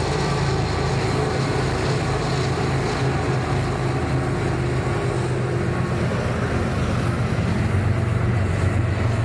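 Train running with a steady low engine drone that holds throughout, the sound of locomotive engines working.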